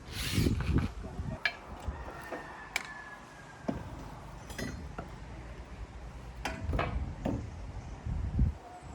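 Scattered knocks and clinks of hand tools and timber during building work on a wooden wall frame, a dozen or so separate sharp taps spread irregularly.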